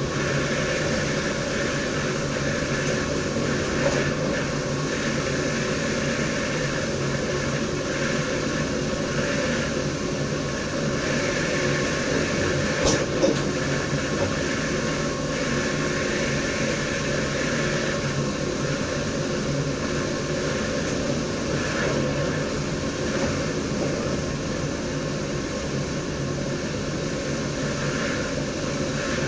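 Dutch Railways DDZ double-deck electric train running along the line, heard from inside the driver's cab: a steady rumble and hum of wheels on rail, with brief knocks about four seconds in and again around thirteen seconds.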